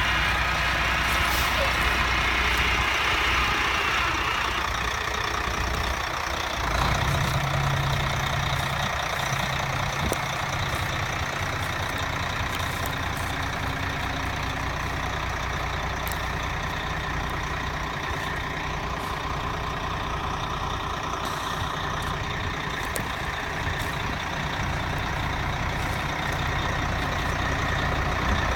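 Diesel engine of a 1993 International 2674 tri-axle grain truck running steadily; a deeper tone comes in about seven seconds in.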